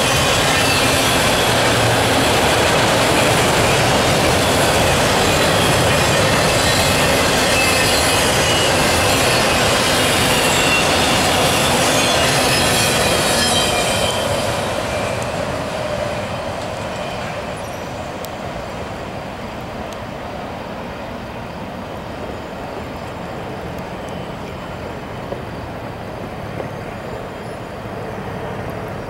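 Autorack freight cars rolling past with a steady rumble of wheels on rail and thin high wheel squeal. About halfway through, the last car goes by and the sound drops to a quieter, duller rumble as the train moves away.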